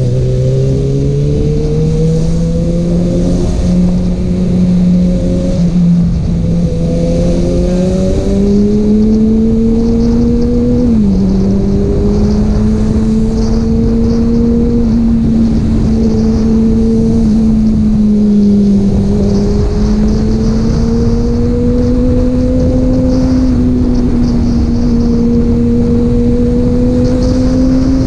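Kawasaki Ninja ZX-6R's inline-four engine with an Akrapovic exhaust running while riding. The engine note climbs in steps over the first several seconds, drops suddenly about eleven seconds in, then holds fairly steady with slow rises and falls as the throttle changes.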